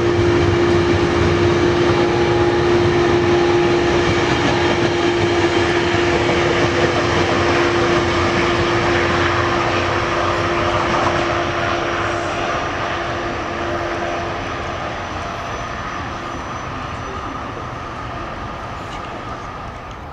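A train passing by, a steady hum under the rushing rail noise, the whole sound slowly fading as the train moves away.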